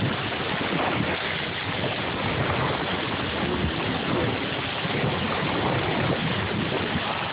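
Steady rush of water and wind noise from a boat under way, with water washing along the hull.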